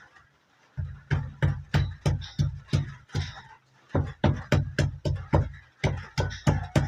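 Pestle pounding spices into a paste in a stone mortar, a steady run of heavy knocks about three a second, pausing briefly midway before starting again.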